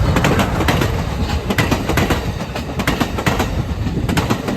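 Amtrak Capitol Corridor passenger train passing close by: a steady low rumble with the wheels clacking rapidly and irregularly over the rail joints.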